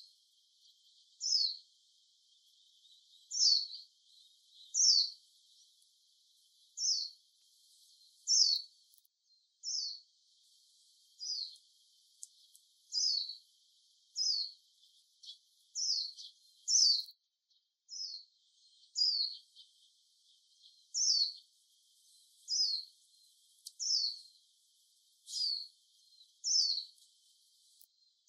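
A small songbird repeating a single short chirp that slides downward in pitch, about one call every second or so, over a faint background hiss.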